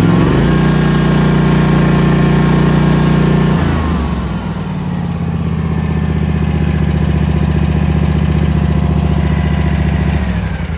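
Kawasaki engine of a Scag stand-on mower running with the transmission belt removed, with no rattling: the rattle was traced to a worn transmission idler pulley bearing, and the engine sounds alright. It drops to a lower speed about four seconds in and winds down as it is switched off near the end.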